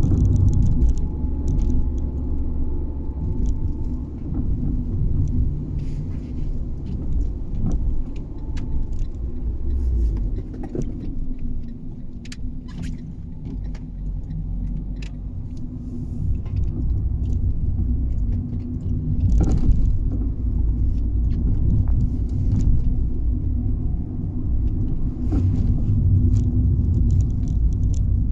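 Fiat 500 being driven, heard from inside: steady engine and road rumble with scattered sharp knocks and clunks from under the car, the loudest about twenty seconds in. It is an underbody clunk that comes on every drive, over smooth roads, bumps and humps alike, with its cause unknown.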